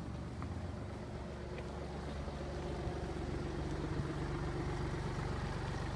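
BMW 116d's 1.5-litre three-cylinder diesel engine idling steadily.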